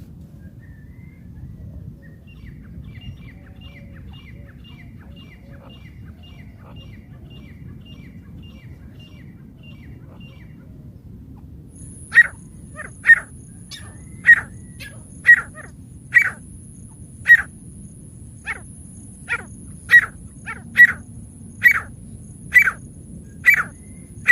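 Francolin (teetar) calling: a faint run of quick chirps about two a second, then from about halfway in a series of a dozen or so loud, sharp single notes roughly one a second, over a steady thin high tone.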